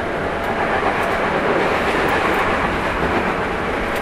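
Tokyu 9000 series electric train running at speed, heard from inside the car: a steady rumble of wheels on rail with a few faint rail-joint clicks.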